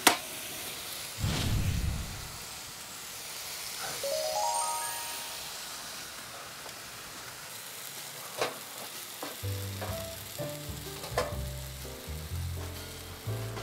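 Spicy stir-fried pork sizzling and frying in a wok over a wood fire, with a sharp tap of the ladle on the wok at the very start and a few clinks of the ladle later. A quick rising run of tones comes about four seconds in, and background music enters about halfway through.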